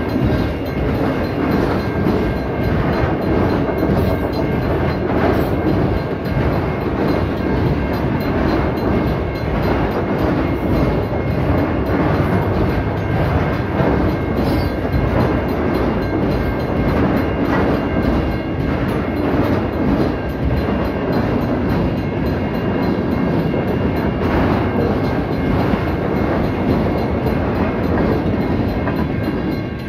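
Norfolk Southern freight train's autorack cars and a covered hopper rolling past close by: a loud, steady rumble and rattle of steel wheels on the rails.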